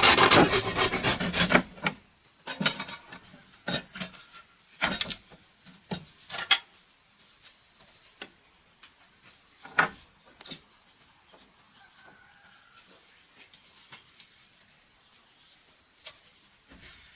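Quick rasping strokes on wood for about the first second and a half, then scattered single knocks of wood being handled. A steady high insect trill comes and goes behind them.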